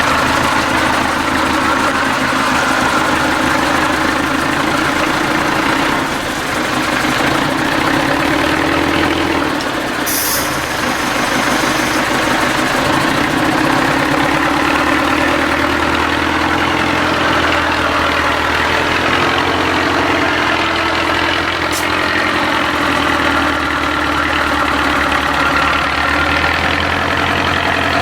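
IFA W50 truck's diesel engine running steadily at low revs, its pitch rising and falling a little, with a short hiss about ten seconds in.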